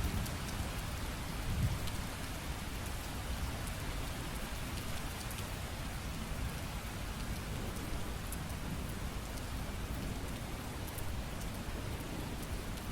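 Steady rain falling on hard surfaces, an even hiss with scattered sharp drop ticks. A low thunder rumble dies away in the first two seconds.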